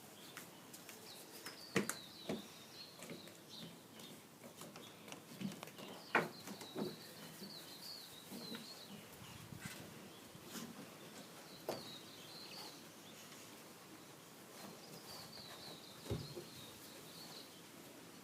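Faint birds chirping in short bouts, with a few soft knocks scattered between.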